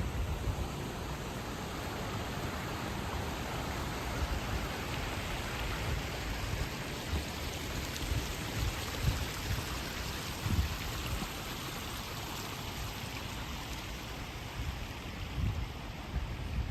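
Steady rush of a flowing river, with a few scattered low thumps.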